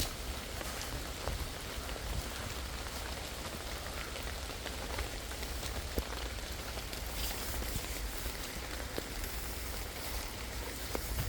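Rain pattering steadily on forest leaves, with irregular single drops ticking, over a low rumble.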